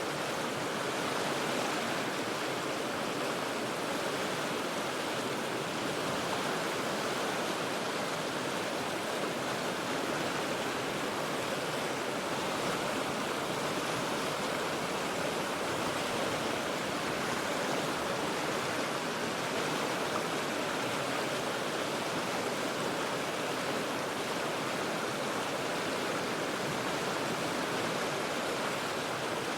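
River water rushing over rocks, a steady, even rush with no breaks or changes.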